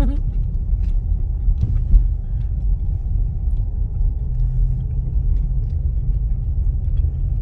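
Car driving on a snow-covered road, heard from inside the cabin: a steady low rumble of tyres and engine.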